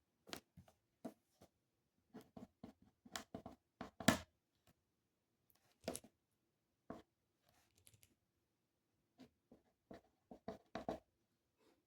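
Irregular light taps and clicks, some in quick clusters, from small objects handled at a desk.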